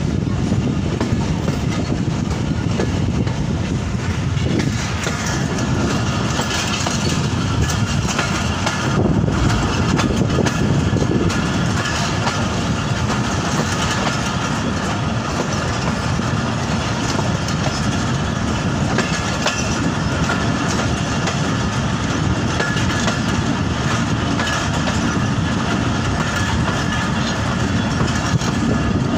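Passenger train running along the track: the steady noise of the carriage and its wheels on the rails, heard through an open carriage window.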